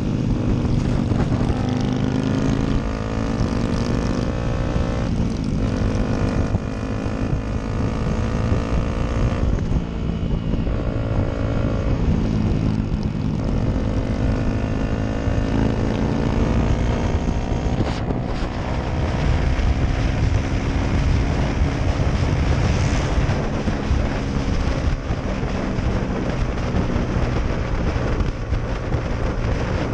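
Motorcycle engine accelerating through the gears: the pitch climbs, drops at each upshift, and climbs again, several times in the first half, then holds a longer, steadier pull. Wind rushes over the microphone throughout.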